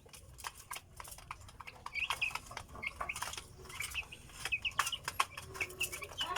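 Young chicks and guinea fowl keets peeping, many short high chirps overlapping, with scattered sharp clicks.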